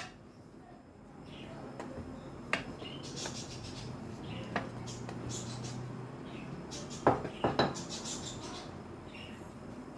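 Metal kitchen utensils knocking and clinking against a pan: single knocks about two and a half and four and a half seconds in, then a quick run of three about seven seconds in.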